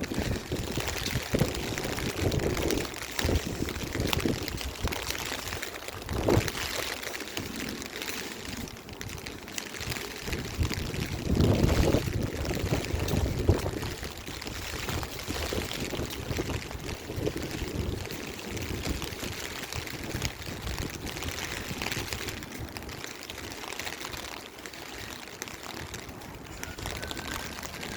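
Strong gusty wind buffeting the microphone, with rain falling. The gusts come and go, the loudest about twelve seconds in.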